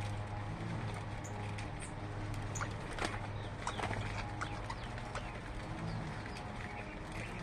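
Birds calling with short, scattered chirps, the loudest about three seconds in, over a steady low hum.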